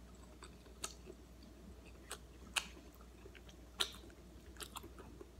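Close-up chewing of a mouthful of chicken curry and rice: soft wet mouth smacks and clicks at irregular intervals, the two loudest about two and a half and nearly four seconds in.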